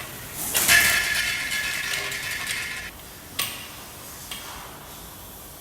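Industrial vacuum cleaner's long connector and S-shaped tube being pushed and twisted together: a scraping, rattling sound of about two seconds, then a sharp click and a lighter one.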